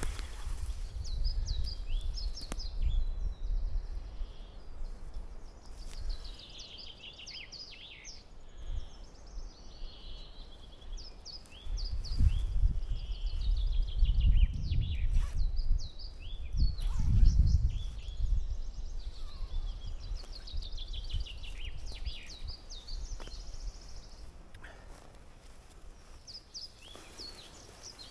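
Small songbirds chirping and trilling over and over, with a low rumbling noise that comes and goes and is loudest about midway.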